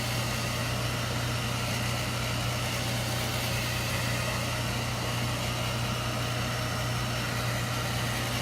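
Handheld hair dryer running steadily: a continuous blowing hiss over a low motor hum.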